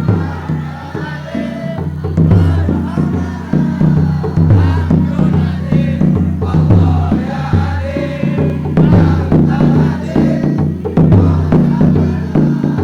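Male choir singing in unison over sustained low instrumental accompaniment with a regular beat.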